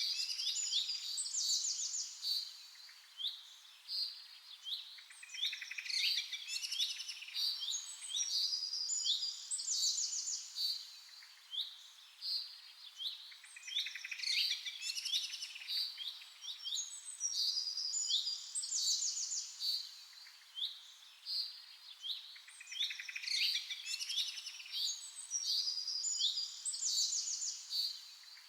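Songbirds chirping and singing: quick high trills and short sweeping whistled notes, coming in phrases that repeat every few seconds.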